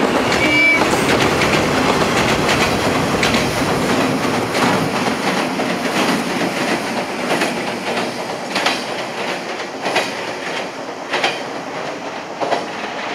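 A JNR-type 115 series electric train running past on the line to a steel truss bridge: a steady rumble with a regular clickety-clack of wheels over rail joints, easing off a little as it draws away.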